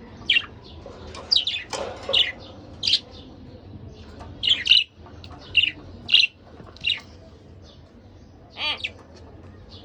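Budgerigars chirping: about a dozen short, sharp chirps and squawks at uneven intervals, with one longer warbled call near the end.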